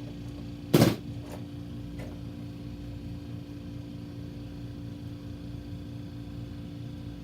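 An adjustable wrench working on the nut that holds a Blizzard machine's speed control, with one sharp metal clank about a second in and a couple of light clicks just after. A steady machine hum runs underneath.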